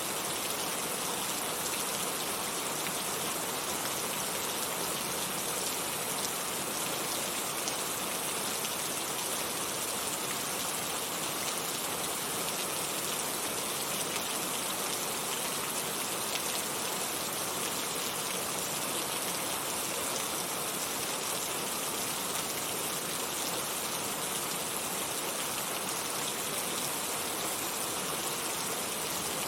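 Heavy rain falling steadily, an even dense hiss with no distinct drops or changes.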